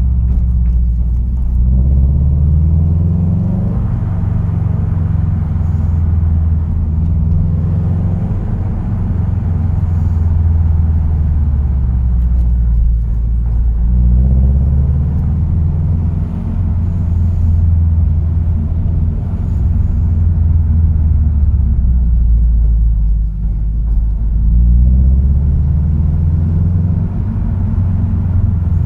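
A car being driven, with a steady low engine and road rumble. The engine note rises in pitch as the car accelerates, about a second in, around the middle, and again near the end.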